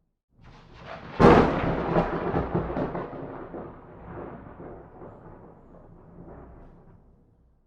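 A thunderclap: a short build, then a sharp crack about a second in, followed by a rolling rumble that slowly fades away over several seconds.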